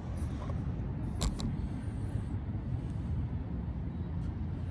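Steady low rumble of street traffic, with a short sharp click about a second in.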